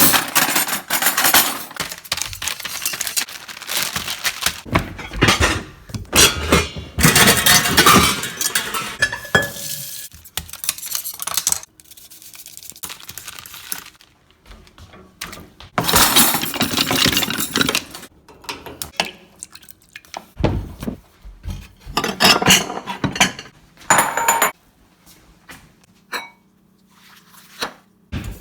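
Kitchen preparation noises: a bowl and utensils clattering and clinking in irregular bursts, with quieter gaps between them. A steady low hum starts near the end.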